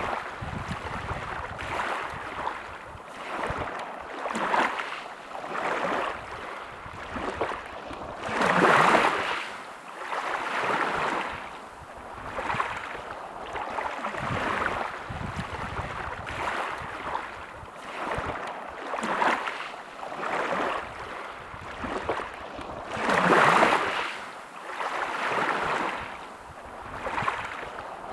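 Small sea waves washing and lapping on the shore, swelling and fading every second or two, with two bigger surges, about nine seconds in and again near twenty-three seconds.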